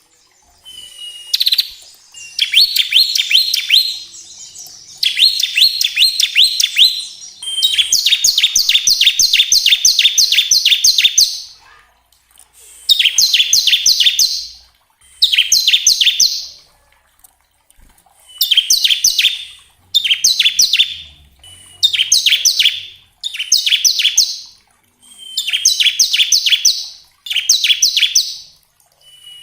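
Bar-winged prinia (ciblek) singing its rapid machine-gun 'ngebren' trill. It comes in repeated bursts of fast, sharp, high notes sweeping downward, each burst lasting one to four seconds and often opened by a short thin note, with brief pauses between bursts.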